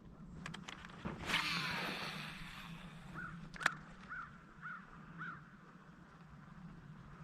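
A bird calls five times in a row, about two calls a second. Earlier there are a few light clicks and a loud, brief rushing noise.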